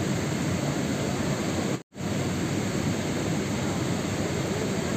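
Steady rain, a dense even hiss heaviest in the low range, played as a sleep sound. It breaks off for an instant of silence about two seconds in, then carries on unchanged.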